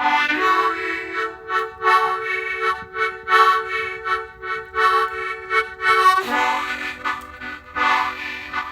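Harmonica playing a held chord under short, rhythmic melody notes. The chord changes to a lower one about six seconds in.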